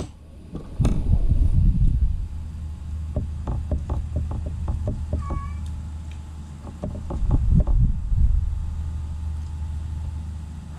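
Eating at the table: runs of short smacking clicks of chewing and fingers working rice and stuffed milkfish, over a steady low hum. A brief faint chirp about halfway through.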